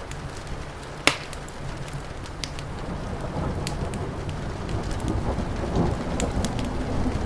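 Crackling wood fire with scattered pops and one loud snap about a second in, over steady rain, while a low rumble of thunder swells from about three seconds in.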